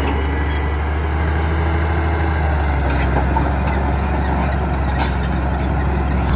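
Heavy diesel engine of the truck or bulldozer running steadily, its deep note shifting slightly about halfway through, with a few faint clicks.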